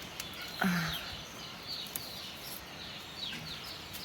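Small birds chirping, a steady run of short downward-sliding chirps, over even outdoor background noise. A brief louder low sound comes just over half a second in.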